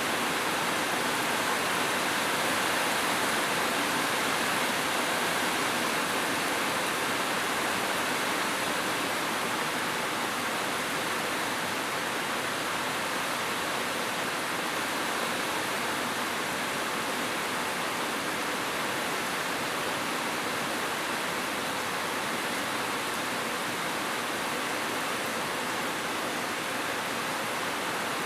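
Steady rain falling, an even continuous hiss with no single drops or thunder standing out.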